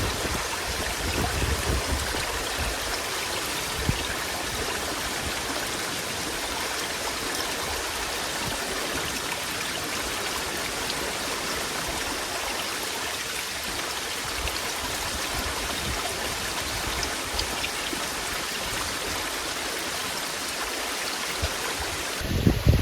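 Steady rushing of running water, an even hiss without rhythm and with a few faint ticks.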